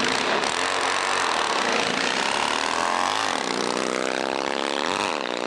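Small motorbike engine running and revving, its pitch climbing, dropping about three seconds in, then climbing again.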